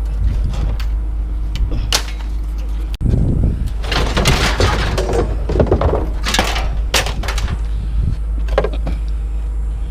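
Scrap being unloaded from a truck bed: pieces clattering, scraping and knocking as they are dragged out and dropped, busiest in the middle, over a steady low rumble.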